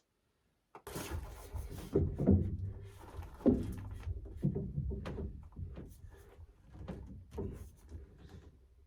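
Irregular knocks and thuds of drain pipe and fittings being handled and fitted, starting about a second in, with some sharper clicks among them.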